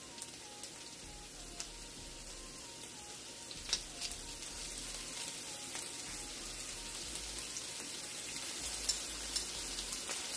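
Diced onions sizzling in hot oil in a frying pan: a steady hiss with scattered small spitting pops.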